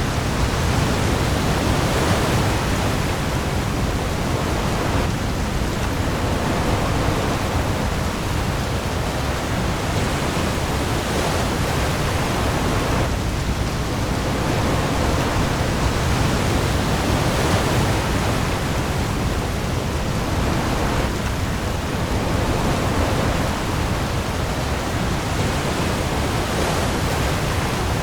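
Heavy rain falling on the sea with waves: a dense, steady hiss that swells every few seconds, over a deep low rumble.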